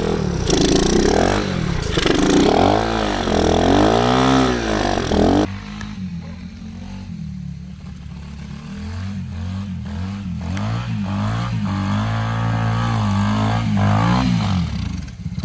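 A small four-stroke minibike engine, a Honda CT70 with a 125cc swap, revving up and down again and again as it tries for grip on ice. About five seconds in the sound drops suddenly to a lower, steadier engine note, which builds again near the end.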